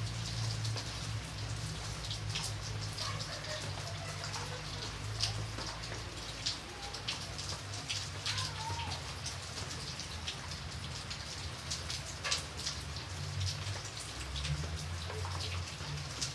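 Steady rain with many separate drops tapping sharply at irregular moments, over a low steady rumble.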